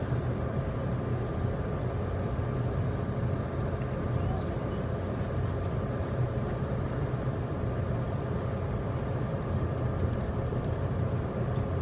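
Steady road and engine noise of a car, heard from inside the cabin while driving: an even low rumble that does not change.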